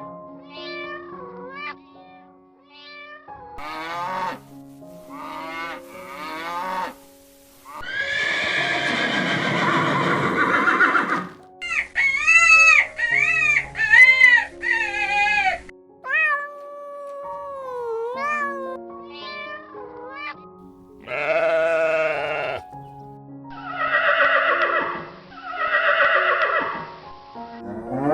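A series of farm animal calls over background music with held notes. The loudest is a long harsh call about a third of the way in, followed by a run of quavering calls and more calls near the end.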